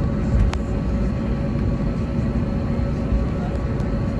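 Airbus A321neo cabin noise: a steady rumble of the engines and airframe with a faint hum running through it. A single sharp click about half a second in.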